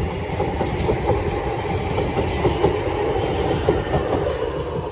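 Two coupled Class 450 Desiro electric multiple units running past at close range: a steady rumble of the train with the wheels clattering over the track.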